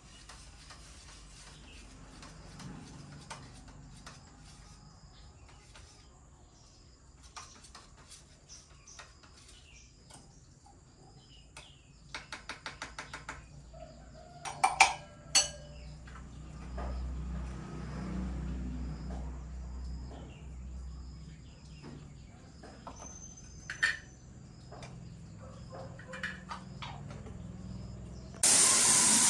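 Metal parts and tools being handled on a workbench. There are scattered clicks, a quick rattle of about ten clicks partway through, and two loud metal clanks that ring. Near the end a loud, steady hiss of spraying air starts suddenly.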